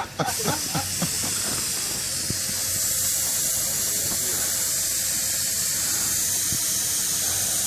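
Air hissing steadily at the valve of a log truck tire whose bead has just been seated with ether. The hiss starts suddenly and grows a little louder after about two seconds.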